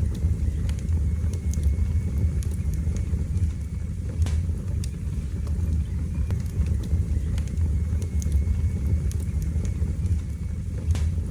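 Wood fire burning in a fireplace: a steady low rumble of flames with scattered crackles and pops, a sharper pop about four seconds in and another near the end.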